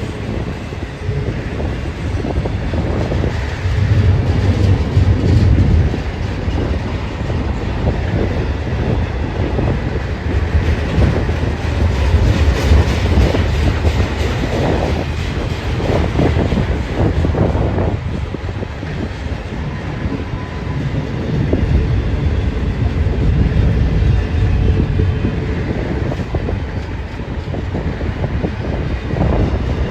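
BNSF train rolling past, its cars rumbling and clacking over the rails, the rumble swelling and easing.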